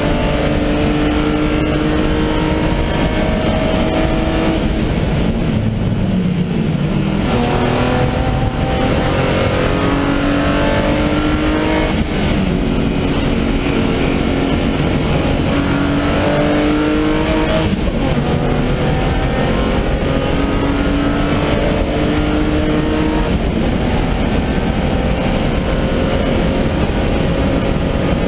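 BMW E36 325i Group N race car's 2.5-litre straight-six, heard from inside the cabin, pulling hard on track: the engine note rises through each gear and breaks at repeated upshifts, with revs dropping briefly about five seconds in.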